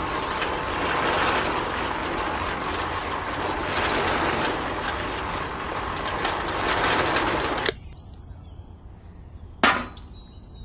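Homemade miniature concrete mixer running on its small electric motor, the drum turning with a dense, steady rattle, until it is switched off and cuts out suddenly about three-quarters of the way through. A single sharp knock follows near the end.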